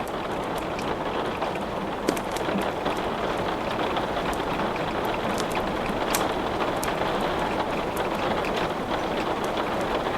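Steady rain hiss mixed with scattered sharp crackles and pops of wood burning in a fireplace, several clicks a second at irregular intervals.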